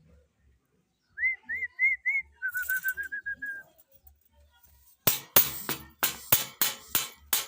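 Parrot whistling: four short rising-and-falling whistles, then a quick run of about eight short, lower notes. About five seconds in, a string of loud, sharp, harsh sounds starts, several a second.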